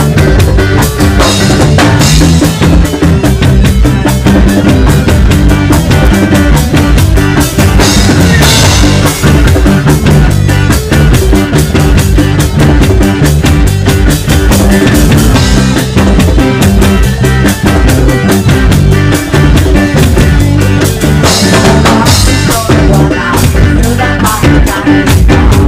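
A band playing a reggae song live, instrumental stretch: drum kit with rimshots, snare and bass drum over bass guitar and guitar.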